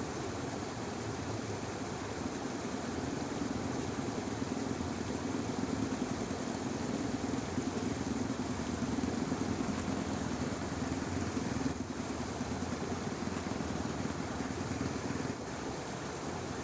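A distant engine drones steadily over a constant hiss of outdoor ambience, growing louder for several seconds and then cutting off abruptly near the end.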